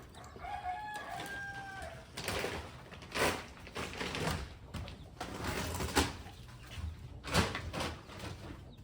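Chickens: a rooster crows once about half a second in, then come a string of short, sharp sounds, likely hens clucking.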